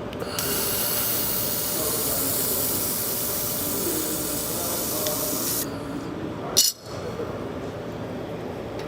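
A 2000 W laser welder runs a pass on 3 mm aluminium without filler wire, making a steady high hiss. It starts just after the beginning and cuts off sharply about five and a half seconds in. About a second later comes a single sharp click, over a steady background hum.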